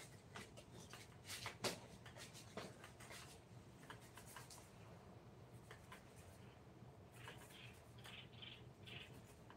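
Faint scratching strokes and small clicks of hand work on wood, with a run of short rubbing strokes about two a second near the end.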